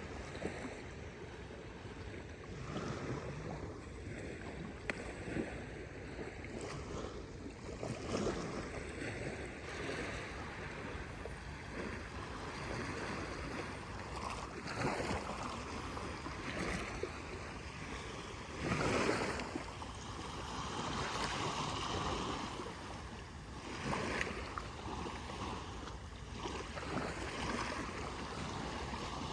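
Small Gulf waves washing onto a sandy beach, the wash rising and falling every few seconds.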